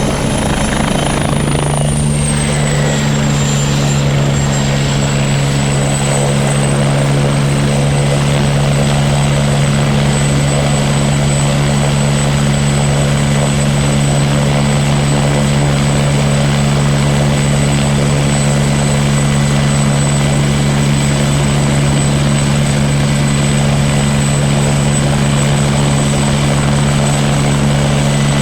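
Helicopter running close by: a loud, steady rotor and engine drone with a high turbine whine. The whine dips in pitch two to four seconds in, then holds steady.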